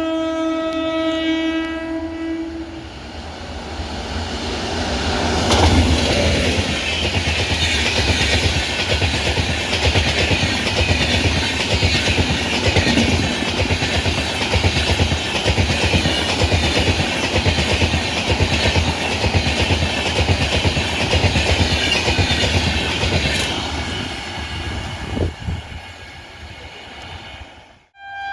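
An Indian Railways train sounds its horn in one steady note of about two and a half seconds, then passes at speed with its wheels clattering rhythmically over the rail joints, the noise fading as it moves away near the end.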